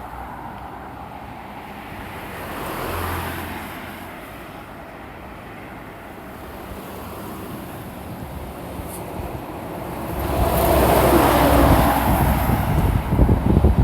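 Road traffic on a busy highway: a vehicle passes about three seconds in, then from about ten seconds a louder vehicle with a deep rumble goes by close. Wind buffets the microphone near the end.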